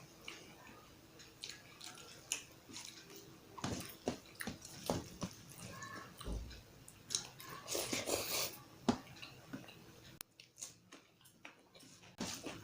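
Close-miked chewing and biting of an Indian curry meal: wet mouth smacks and clicks coming in irregular bursts, with a quieter pause a little after ten seconds in.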